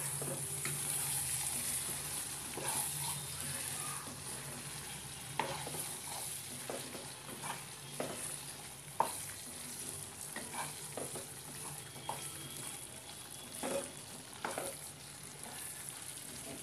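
Thick chickpea curry sizzling in a nonstick frying pan as a spatula stirs it. The spatula scrapes and knocks against the pan every second or so, sharpest about nine seconds in, over a steady sizzle.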